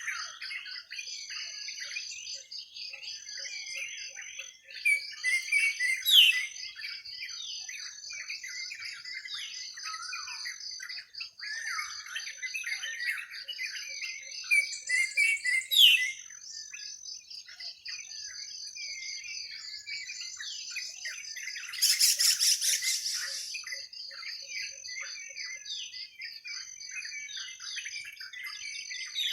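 Many birds chirping and calling together in a forest, over a steady, high, pulsing trill. There are a few louder calls, and about two-thirds of the way through comes a harsh, buzzy call lasting a couple of seconds.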